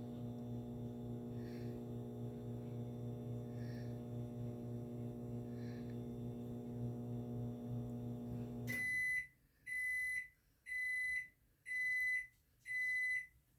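Microwave oven running with a steady electrical hum that cuts off about nine seconds in, followed by five high beeps about a second apart as the cycle ends.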